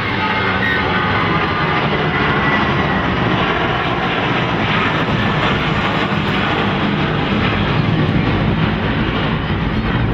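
Aircraft engines passing low overhead, a steady loud noise that drowns out the game.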